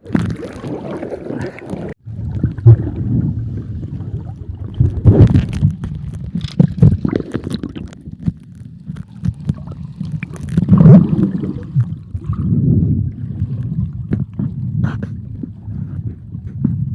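Wind buffeting the microphone over water and boat noise, in rough, irregular surges, as on a fast ride across the sea.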